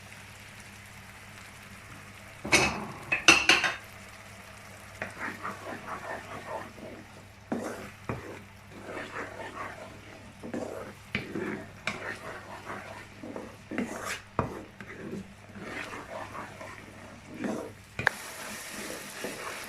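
A spoon stirring and scraping a masala of onion, spices and tomato paste in a frying pan, with a light sizzle underneath. Two sharp knocks of the spoon on the pan come between two and four seconds in, followed by many short, irregular scraping strokes as the masala is fried down (bhuna).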